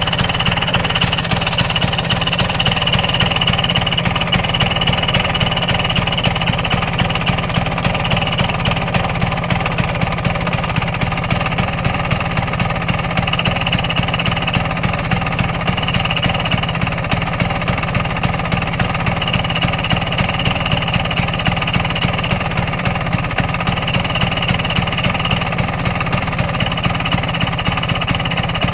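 Vespa PX200FL's single-cylinder two-stroke engine idling steadily, with the front-shield 'Vespa' badge chattering and rattling in time with the engine vibration, a higher chatter that fades in and out. The noise comes from the badge's fastening pins rubbing against their holes in the body.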